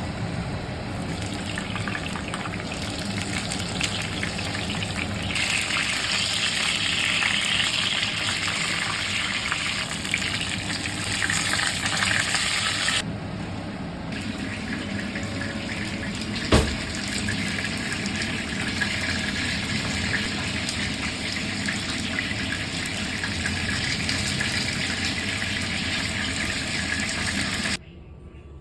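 Chicken thigh pieces deep-frying in hot vegetable oil: a steady, dense sizzling crackle that shifts in loudness at a couple of points, with one sharp knock about two-thirds of the way through.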